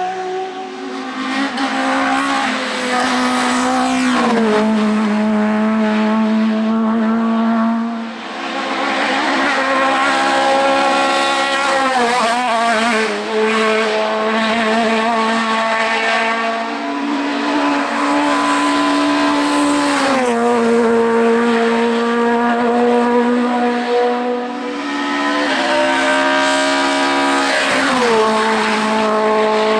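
Hill climb race car engine at full throttle, running at high revs and upshifting about every eight seconds, each shift a sharp drop in pitch.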